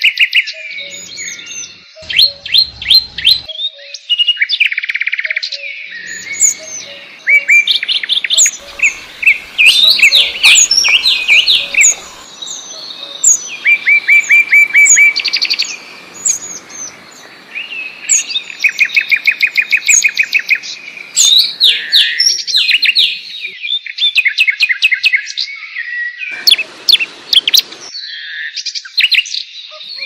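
Songbirds singing and chirping, several overlapping songs made of quick trills and runs of rapidly repeated notes, with short pauses between phrases.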